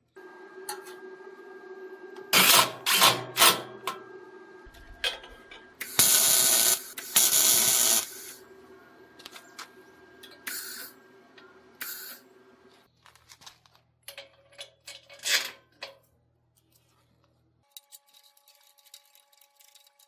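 Metalworking tool sounds on a steel frame: a quick run of sharp metal clanks, then two short bursts of a power tool running, about a second each, with scattered knocks after and a faint steady hum under the first part.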